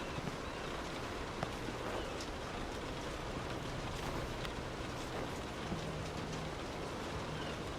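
Steady rain falling, heard from inside a car, with a dense patter of drops and scattered sharper drop hits.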